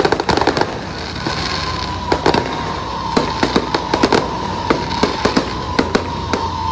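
Fireworks going off in a rapid, irregular string of sharp bangs and crackles. From about a second in, a long steady whistling tone runs under the cracks.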